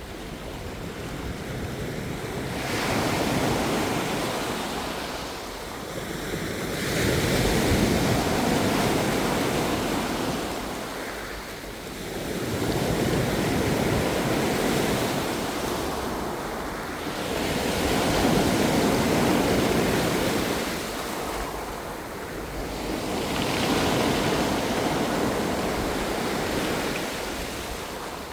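Ocean waves surging in and washing back, swelling and fading in a slow rhythm about every five seconds.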